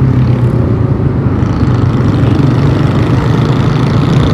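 Motorcycle engine running steadily while riding, a low hum under wind and road noise on the rider's microphone, with the noise growing a little about a second and a half in.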